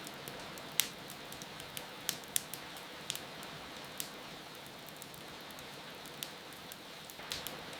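Wood fire crackling, with sharp irregular pops, over a steady hiss of rain.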